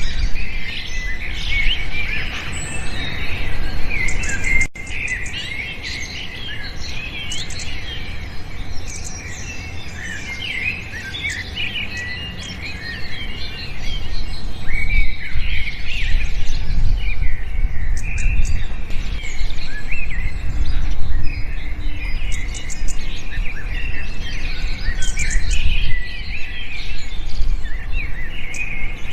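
A chorus of many small birds chirping and twittering at once: quick, overlapping notes that glide up and down, with a steady low rumble underneath.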